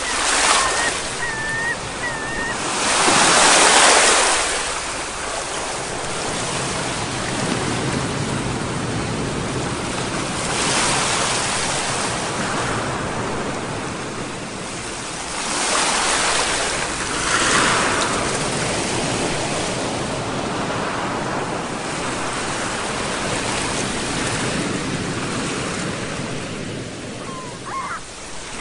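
Sea waves breaking and washing in a steady surf, swelling louder with each big wave: about three times, the loudest a few seconds in. A few short high calls sound near the start and again near the end.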